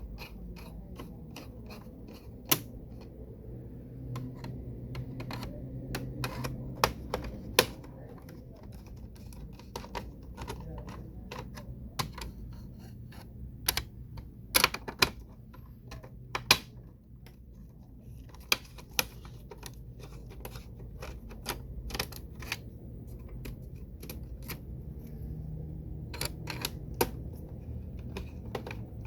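A screwdriver working small screws out of the HP Z1 workstation's internal bracket: many irregular small clicks and taps of the tool and parts, with a few louder clicks near the middle, over a steady low hum.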